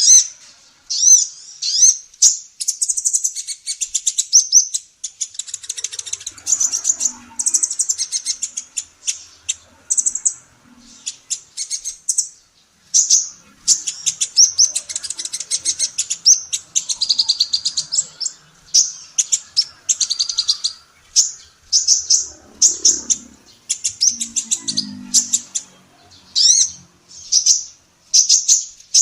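Female kolibri ninja sunbird singing: fast, high-pitched chirps and trills in short repeated phrases and longer rapid runs, with barely a pause.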